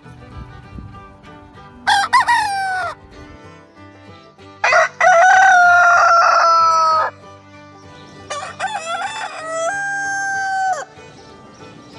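Rooster crowing three times, the middle crow the longest, drawn out and slowly falling in pitch.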